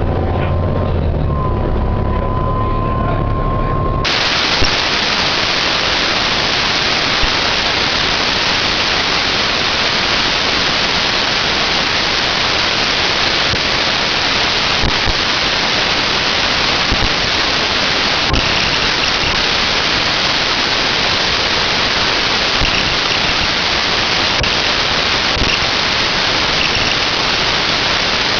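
Bus diesel engine running with a thin gearbox whine that rises in pitch. About four seconds in, this cuts suddenly to a loud, steady hiss that stays even for the rest of the time.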